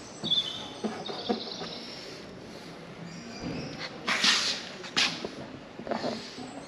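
Birds chirping in short high calls, with a few knocks, a short burst of noise about four seconds in and a sharp click about a second after it.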